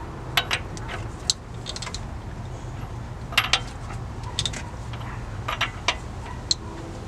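Sharp metallic clicks in small groups of two to four, every second or so, as the engine's crankshaft is turned over by hand with a wrench to bring the timing marks into line, over a steady low hum.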